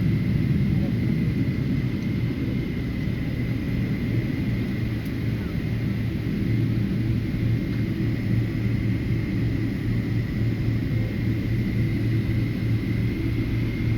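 Airplane engines running with a steady low rumble and a thin, steady high whine over it.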